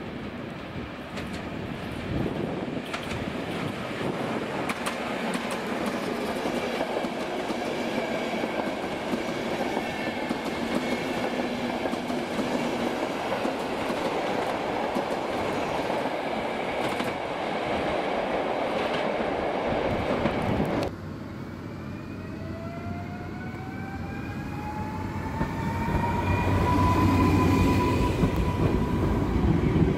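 Passenger train cars rolling past the platform, wheels clattering over the rail joints. Then, after a cut, a Koleje Dolnośląskie electric multiple unit pulls away, its electric drive whining and rising steadily in pitch as it gains speed, loudest near the end.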